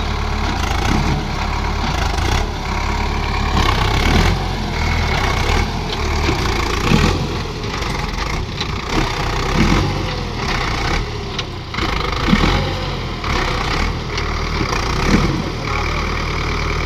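Tractor diesel engine running hard and steady, with brief surges every few seconds as it strains to pull a tractor stuck in the soil free.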